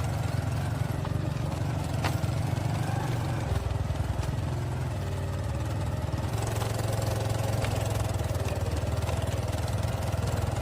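Motorcycle engine running steadily at low speed, with a couple of short knocks along the way.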